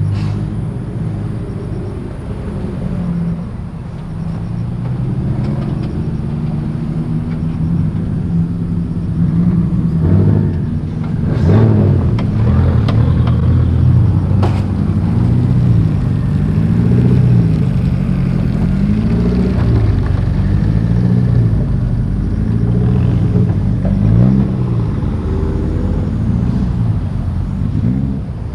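Modified car engines running as cars roll out; from about eleven seconds in, an engine is revved up and down over and over, about every one and a half seconds, with a couple of sharp cracks.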